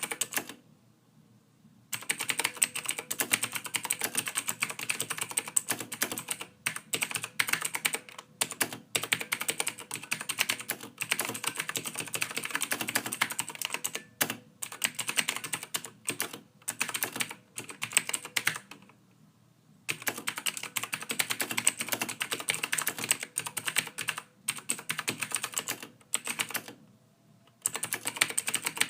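Soft typing on a computer keyboard: a fast, continuous run of key clicks, broken by brief pauses about a second in, about two-thirds of the way through, and near the end.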